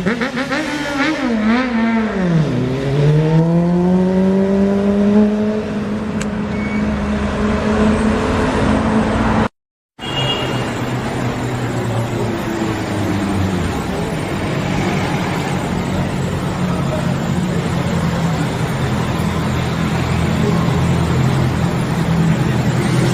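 A sportbike's inline-four engine. Its revs drop steeply in the first couple of seconds, then climb slowly as it pulls in gear. After a short break the engine holds a steadier note under a loud rushing noise.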